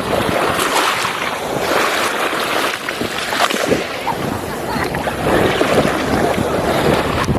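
Waves washing on the shore, with wind buffeting the microphone in uneven gusts.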